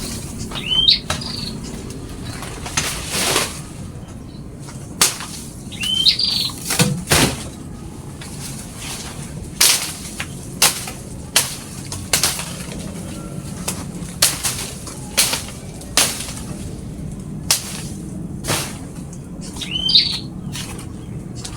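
Small pipit birds chirping: three short curved chirps, one near the start, one about six seconds in and one near the end. Many short sharp rustles or flutters come between them, something like wing flapping.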